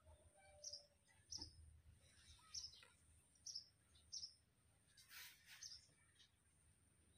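Faint bird chirps, short calls repeated every second or so, over a steady thin high-pitched tone. A brief scuffing noise comes about five seconds in.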